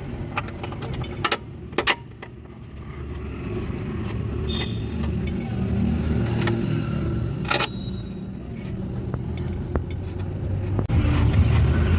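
Scattered metallic clinks and knocks of tools and bolts as front suspension parts are fitted, over a steady low vehicle rumble that gets louder about eleven seconds in.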